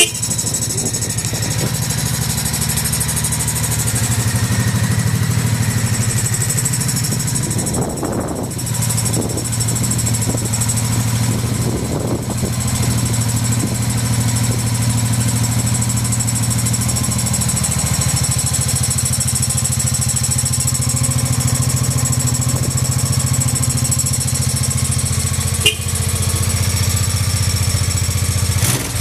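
Honda NV750 Custom V-twin motorcycle engine idling steadily, with a few short throttle blips about eight to twelve seconds in. The idle is stable with no abnormal noises.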